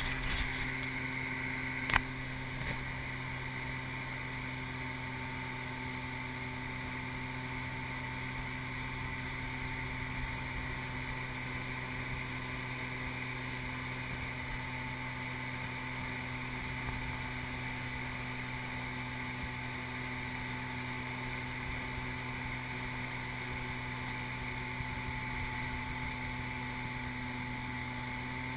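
Tow boat's engine running at a steady speed, a constant drone, with a single sharp knock about two seconds in.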